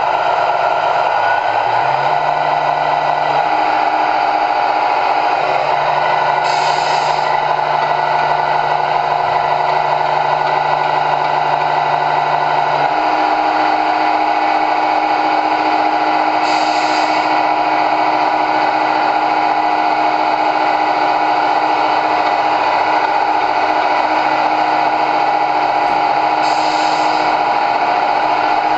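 Small electric motors of remote-control model trucks running steadily with a whine, the pitch stepping a few times, and a short hiss about every ten seconds.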